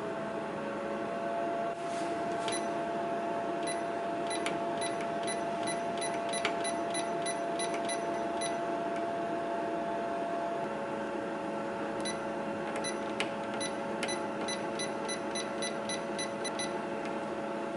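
Puchi Mini II commercial food dryer's fan motor running with a steady hum after spinning up. Two runs of rapid short beeps, about four a second, one after about four seconds and another after about twelve, as its controls are set.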